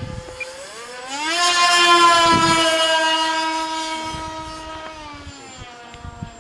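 Electric RC airplane's brushless motor and propeller whining under throttle: the pitch rises about a second in, holds steady and loud, then drops from about five seconds in.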